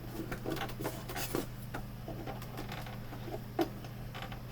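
Prying tools working at the seam of a Samsung U32J590UQU monitor's plastic casing, giving light, irregular clicks and scrapes as the clipped panel shifts a little. A steady low hum runs underneath.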